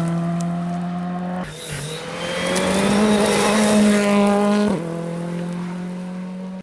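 A WRC2 rally car's engine at high revs. The revs drop sharply about a second and a half in, build again, and fall near the end.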